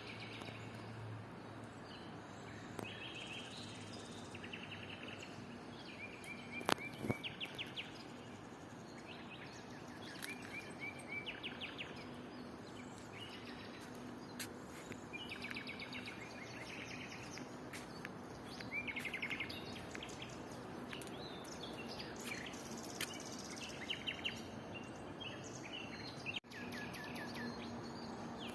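Songbirds singing after rain: short trilled and chirping phrases repeat every second or two over steady outdoor background noise. There is a sharp tick about seven seconds in.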